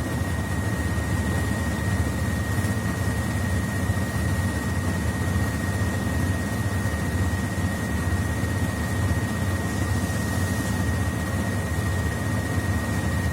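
Mercedes-Benz Citaro C2 articulated bus heard from inside the cabin while driving, a steady low rumble with a thin, constant high whine over it.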